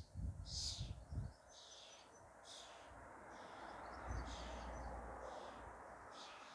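Bird calls: short, high calls repeating about once a second, with low thumps and rumble on the microphone in the first second or so.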